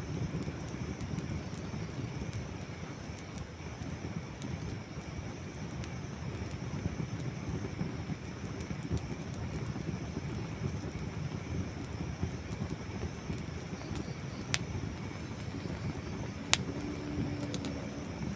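Wood campfire burning with a steady low rumble and sparse small crackles, broken by two sharp, louder pops about two seconds apart near the end.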